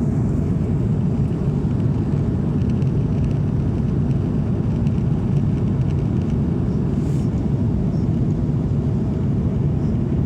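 Steady low rumble of an Airbus A340-600 airliner in flight, the engine and airflow noise heard inside the cabin.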